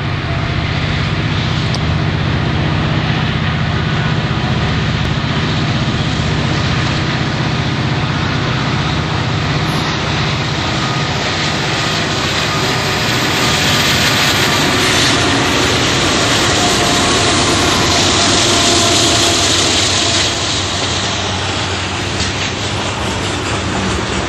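Freight train led by three diesel-electric locomotives (an EMD SD40-2, an EMD SD60 and a GE AC4400CW) approaching and passing, the engines a steady low drone. It grows louder for several seconds past the middle as the locomotives go by, then gives way to the rumble of freight cars rolling on the rails.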